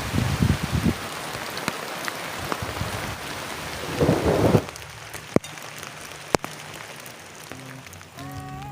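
Heavy rain falling steadily, with low rumbles of thunder at the start and again about four seconds in, and two sharp cracks around five and six seconds in. Music begins near the end.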